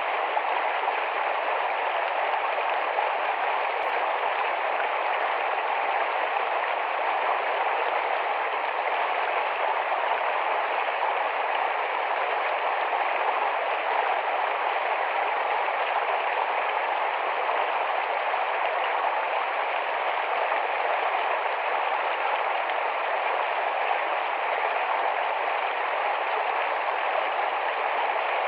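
Small, fast-flowing forest stream rushing over rocks, a steady unbroken water noise.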